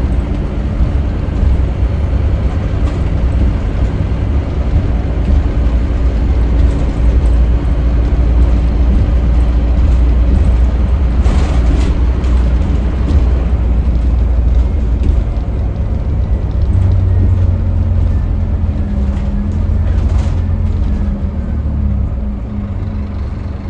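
Scania K310UB city bus engine running under way, heard from on board, with heavy low rumble and road noise. Its engine note shifts about two-thirds of the way in, and the level eases off near the end.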